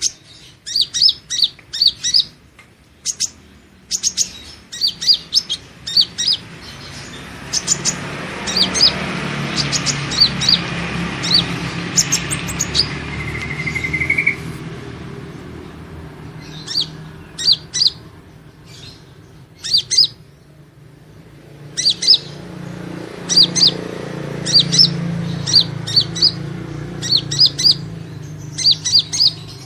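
Kolibri ninja sunbird calls: rapid runs of short, sharp, high chirps, broken by brief pauses. A rushing background noise with a low hum swells up twice beneath the chirping.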